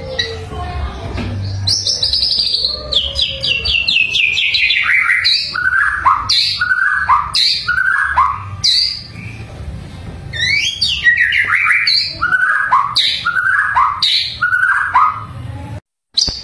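A bird singing: a quick run of short notes that fall steadily in pitch, followed by a string of separate downward-slurred whistled notes, repeated. A low steady hum lies underneath, and the sound cuts out briefly near the end.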